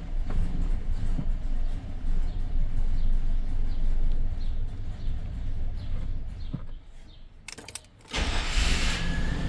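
1999 GMC truck's V8 engine turning over steadily, then dying away about seven seconds in with a few clicks, followed by a short burst of hiss. The engine misfires on both banks, which the mechanic traces to a leaking intake manifold gasket.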